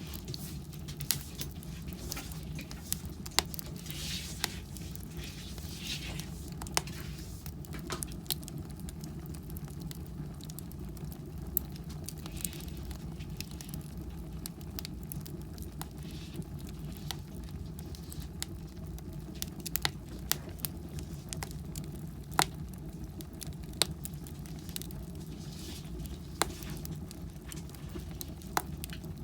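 Firewood burning in a fireplace: irregular sharp crackles and pops, a few a second, over a steady low hum.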